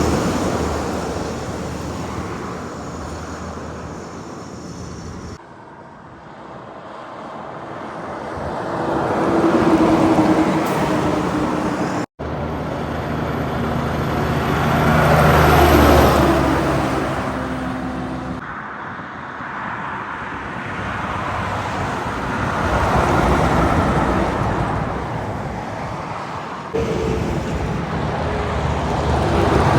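Heavy trucks passing by on a road, engine and tyre noise swelling as each approaches and fading as it goes. The sound jumps abruptly several times between separate pass-bys.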